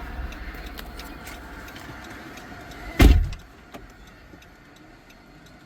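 Low rumble inside a car, then a car door slamming shut about three seconds in, the loudest sound, after which the cabin goes quieter.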